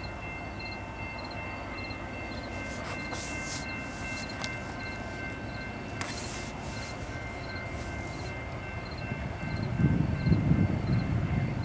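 Approaching freight train led by BNSF diesel locomotives, a distant low rumble that grows louder over the last two seconds as it nears. Through it run a faint repeating ringing about twice a second and a few short metallic clanks.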